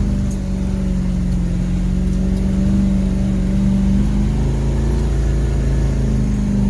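M1028 CUCV's 6.2-litre diesel V8 pulling under load in first gear, with both lockers engaged, climbing a steep snowy grade. It is a steady drone whose pitch steps up slightly about four seconds in.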